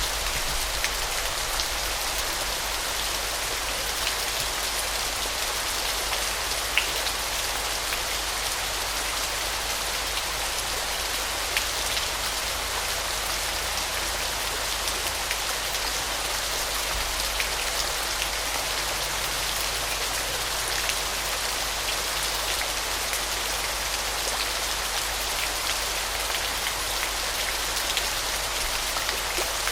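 Waterfall: a steady, hissing rush of falling water with scattered sharp splashes.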